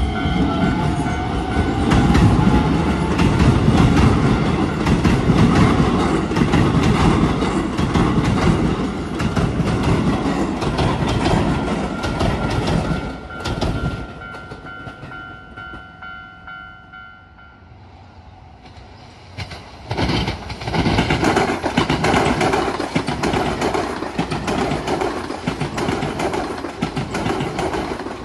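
Keisei 3000 series electric commuter train clattering and rumbling over a level crossing as it pulls out, its motor whine rising in pitch at the start, while steady ringing tones from the crossing alarm sound over it. Near the middle the sound drops to quieter alarm tones and a more distant train, then about twenty seconds in an E259 series Narita Express passes close by with a loud, steady rush of wheels on rail.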